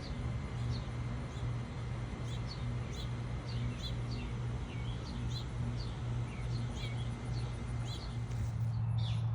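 Birds chirping, many short high chirps one after another, over a steady low hum.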